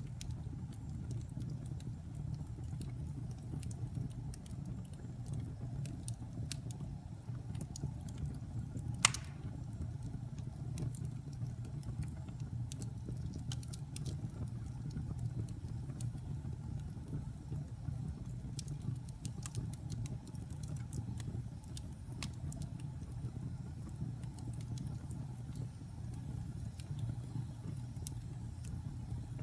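Wood fire burning in a fireplace: a steady low rumble with scattered small crackles and pops, and one sharp, louder pop about nine seconds in.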